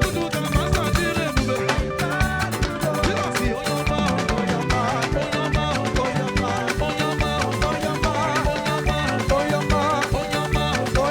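Live band playing upbeat African gospel praise music with a steady dance beat.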